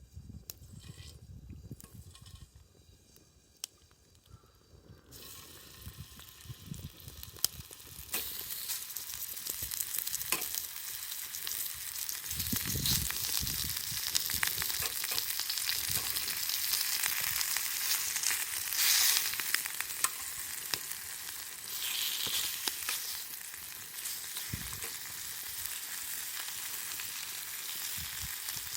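Food sizzling in a pan over a wood fire, a steady hiss with fine crackles. It sets in about five seconds in, after a few soft knocks, and grows louder a few seconds later.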